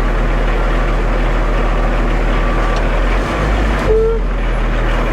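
Concrete mixer truck's diesel engine and turning drum running steadily as the truck creeps forward at a crawl, with a brief shift in the low rumble a little after three seconds and a short single tone just before four seconds in.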